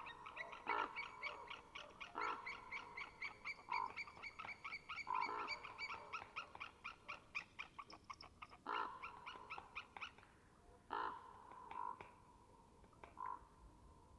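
A bird calling: a long, rapid series of short repeated notes, about four a second, that stops after about ten seconds, with a few louder, harsher calls mixed in and a few more after the series ends.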